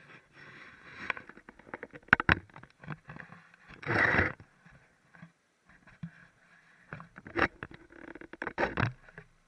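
Hands handling toilet tank parts: irregular clicks, knocks and scrapes, with a louder noisy scrape lasting about half a second near the middle.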